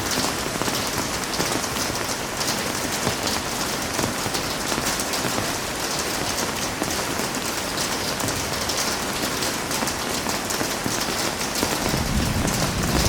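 Heavy rain falling steadily, a dense, even hiss of drops. Near the end a low rumble swells in beneath it.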